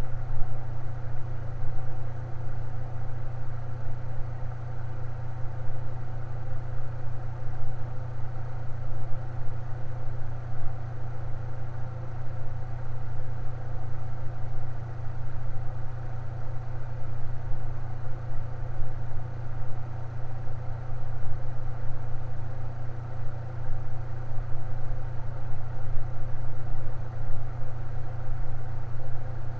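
Fan running steadily: a constant low hum with a fainter even whir above it, unchanging throughout.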